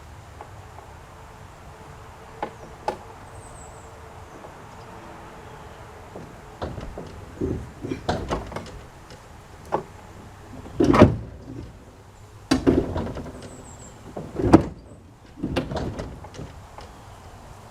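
Irregular metal clunks and bangs from the unbolted body section of a 1991 Ford Explorer as it is rocked and tugged by hand. The knocks come in loose clusters, with the two loudest bangs near the middle and about two-thirds of the way through.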